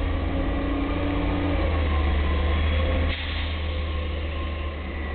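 McNeilus garbage truck running close by: a steady low engine drone with higher whining tones over it. About three seconds in there is a short hiss and the level drops a little.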